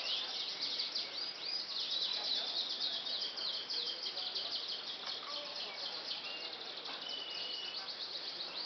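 Domestic canaries singing, many at once: a dense, unbroken chorus of rapid high trills, chirps and short whistled notes.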